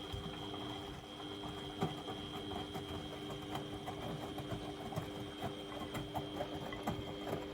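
Beko WMD 46160 washing machine running: a steady motor hum with a high whine over it, and irregular light clicks and knocks.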